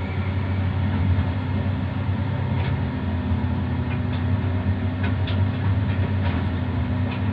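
Heavy haul truck's diesel engine running steadily with a deep, even hum, and a few short high squeaks scattered through.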